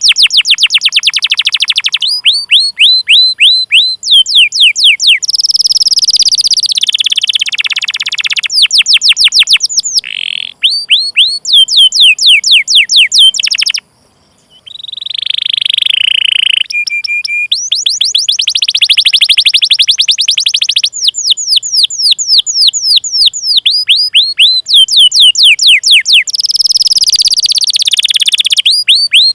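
Domestic canary singing loudly: runs of rapid, repeated down-slurred chip notes ('cuit cuit'), alternating with buzzy rolling trills, and a brief pause about 14 seconds in.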